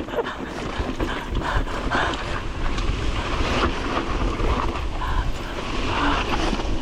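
Steady rumbling and rattling of a ride down a slick, rough trail: tyres rolling over the ground and the machine shaking, with wind buffeting the microphone.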